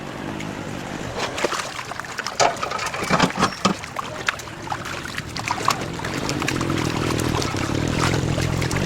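Water splashing and trickling, with scattered knocks and clicks, as live catfish are handled in water. A low steady rumble builds over the last few seconds.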